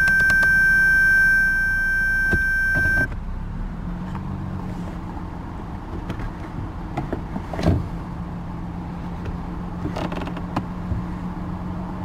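Lexus IS250's 2.5-litre V6 idling steadily, heard from inside the cabin, with a few light clicks and knocks. A steady high electronic tone runs over it for the first three seconds and cuts off suddenly.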